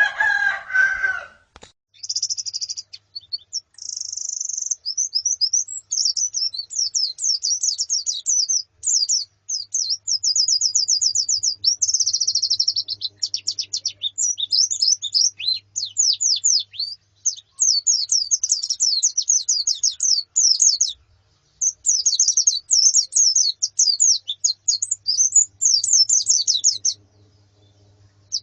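White-eyes (pleci) twittering in a fast, almost continuous run of high chirps and trills. It opens with a lower, harsher call and breaks off briefly about two-thirds of the way through and again near the end.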